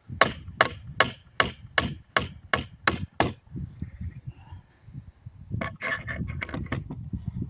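Hammer striking a wooden pallet plank in steady blows, about two and a half a second, knocking nails out. The blows stop about three seconds in, then come again as a quick flurry around six seconds.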